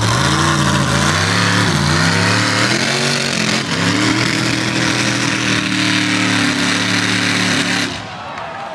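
Monster truck engine revving, its pitch rising and falling for several seconds, then held at a steady high pitch before dropping away near the end.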